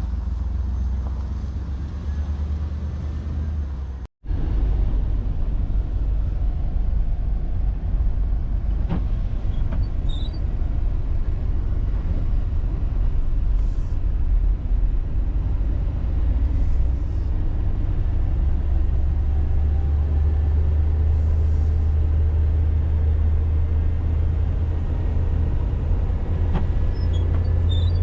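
1989 Chevy G20 van on the move, a steady low engine and road rumble. It breaks off briefly about four seconds in, then the engine note climbs slowly through the last ten seconds.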